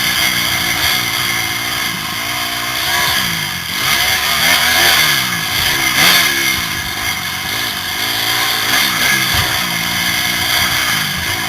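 Motocross bike engine revving up and down over and over as the throttle is opened and closed, heard from the rider's helmet camera.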